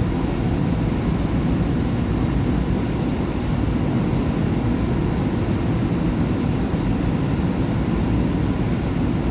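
Steady low rumble and hum inside a SEPTA Market-Frankford Line subway car standing at a station with its doors open.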